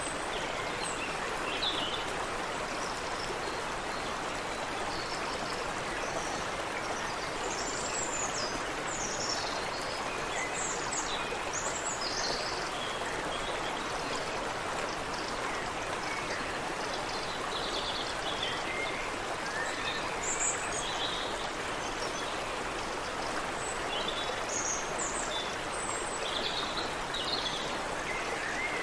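Creek water running steadily over rocks, with small birds chirping and trilling here and there above it.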